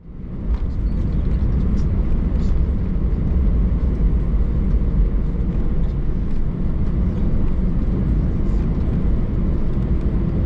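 Cabin noise inside an Airbus A319 on the ground: a steady low rumble of the jet engines and airframe as the airliner taxis, fading in at the start and then holding level.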